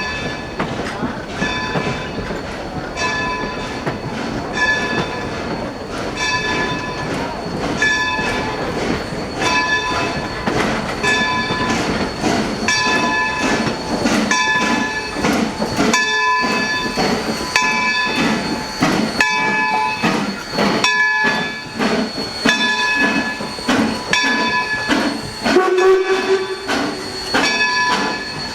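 Bell of Baldwin #26, an 0-6-0 steam locomotive, ringing steadily with evenly spaced strikes as the train reverses, over the rumble of the moving train. A brief rising squeal comes near the end.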